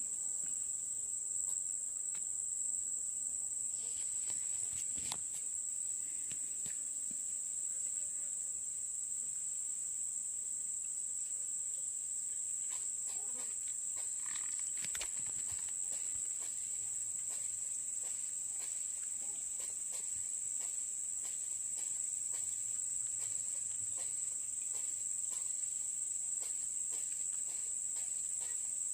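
Steady, high-pitched insect chorus of crickets droning without a break, with a few faint clicks and knocks over it.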